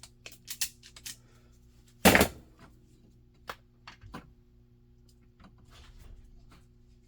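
Hands working with tools and wire: a string of light clicks and taps, one loud sharp knock about two seconds in, then a few more light clicks.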